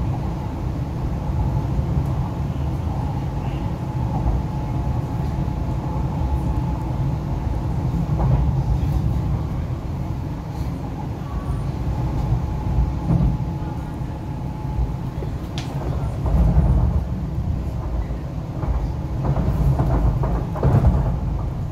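Cabin of an MTR East Rail Line R-Train, a Hyundai Rotem electric multiple unit, running at speed: a steady low rumble of the wheels on the rails. A faint steady whine runs through the first half, and the rumble swells heavier about two thirds of the way in and again near the end.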